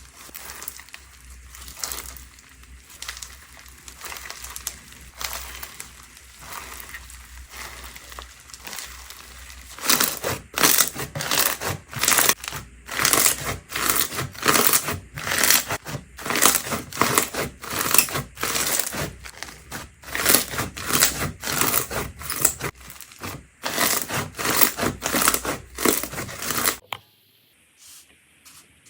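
Slime being squeezed and pressed by hand, giving crinkly, crackling squelches. It is soft at first, then from about a third of the way in it turns loud and crisp, about two presses a second. It stops suddenly near the end.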